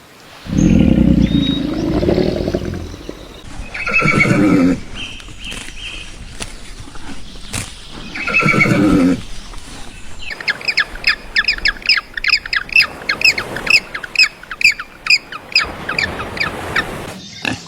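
A loud low sound at the start, then a horse neighing twice with wavering pitch. In the second half comes a fast run of short high chirping calls, about four a second.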